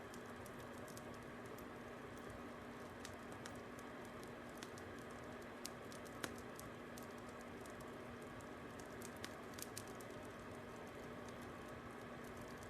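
Fire crackling: irregular sharp pops and snaps, a couple louder ones about halfway through, over a steady soft hiss and faint hum.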